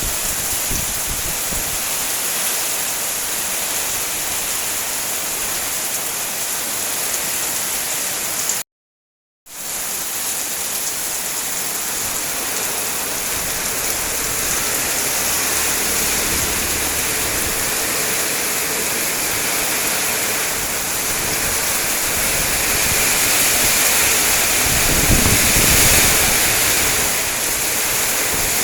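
Heavy rain pouring steadily as a dense hiss. The sound cuts out completely for under a second about a third of the way in, and grows louder with a low rumble near the end.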